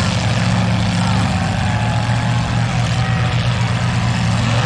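Demolition derby car engines running at a steady pitch, a constant low drone.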